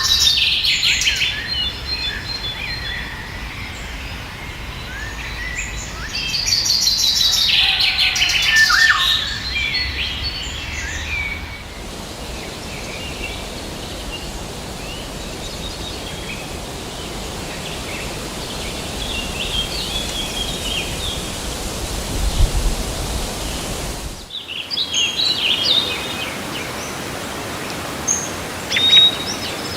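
Wild birds chirping and calling in clusters of short notes over a steady background hiss of forest ambience. The sound drops out sharply for a moment about four-fifths of the way through.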